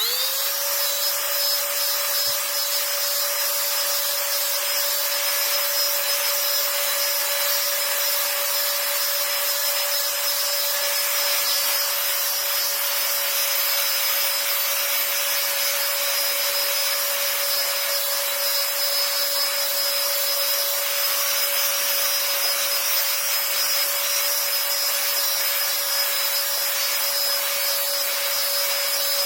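SIMWAL cordless handheld vacuum cleaner switched on: its small motor spins up within half a second to a steady whine over a loud airflow hiss, then runs unchanged. Its suction is weak, too little for cleaning a car.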